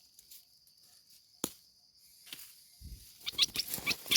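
Insects, crickets or cicadas, buzzing steadily in a high band. A sharp click comes about one and a half seconds in, and a burst of rustling with quick rising chirps comes near the end.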